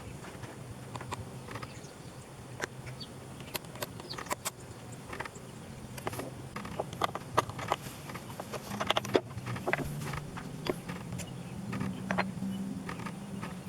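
Scattered light clicks and taps of small parts and tools being handled over a steady low hum that swells somewhat in the second half.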